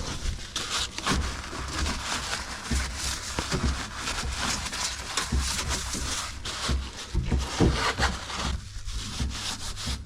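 Irregular scraping and rubbing, with uneven low thuds throughout.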